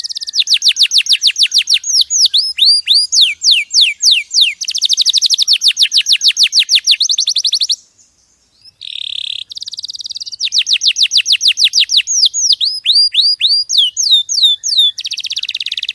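Canary singing in fast trills of rapidly repeated high, down-sweeping notes, the runs changing speed and pitch, with a break of about a second midway.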